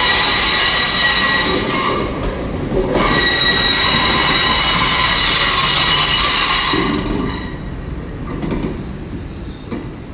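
Train wheels squealing on the track as a train runs into the station: a loud, steady, high-pitched squeal that fades from about seven seconds in, leaving a lower rumble.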